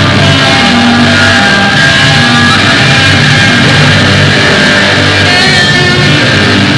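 Loud, distorted rock music with electric guitar playing continuously.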